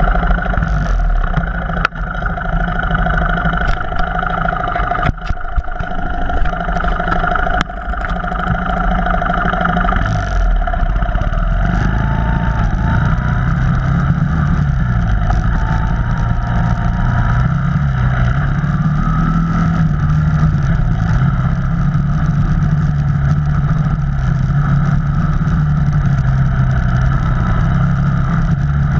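Off-road vehicle engine running under way, its pitch rising and falling with the throttle. Sharp knocks and rattles come through in the first several seconds.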